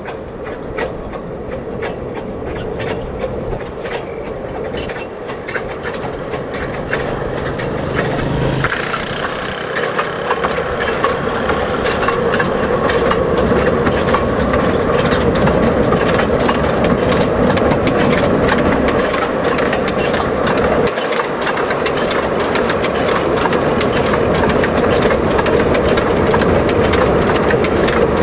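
Narrow-gauge industrial train running, its wheels clicking rapidly over the rail joints above a steady drone; it grows louder and brighter from about nine seconds in, as if coming closer.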